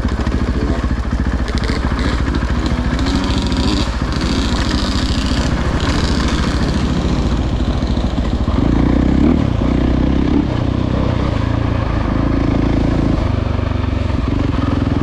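Dirt bike engine running steadily as it is ridden along a trail, briefly louder about nine seconds in, with some clatter.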